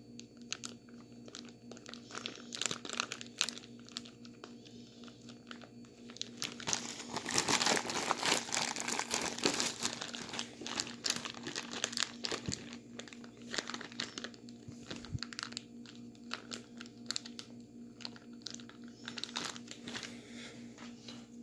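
Plastic bag crinkling and rustling as it is handled, in dense irregular crackles that are busiest and loudest from about 7 to 10 seconds in.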